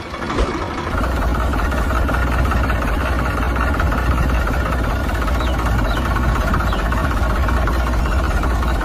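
Motor of a homemade model water pump running steadily, building up over the first second and then holding an even low hum.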